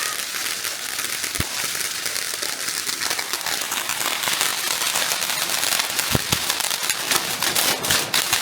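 Fireworks crackling: a dense, continuous run of rapid small pops, with a couple of deeper thuds, about a second and a half in and again about six seconds in.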